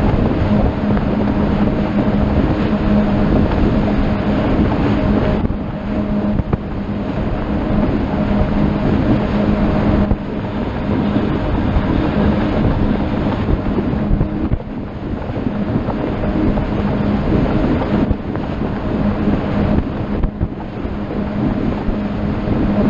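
Motorboat engine running steadily under way, a constant hum, with wind blowing across the microphone and water rushing past the hull.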